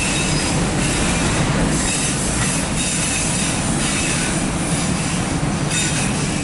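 Freight train of empty autorack cars rolling past: a steady rumble of wheels on rail.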